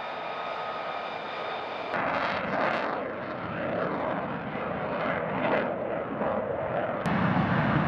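Military jet fighter engines. A steady high turbine whine first, then about two seconds in a sudden change to louder jet noise that swells and fades several times, and near the end another abrupt change to a deeper, heavier rumble.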